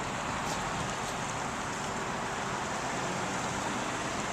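Steady outdoor background noise: an even hiss with a faint low hum underneath.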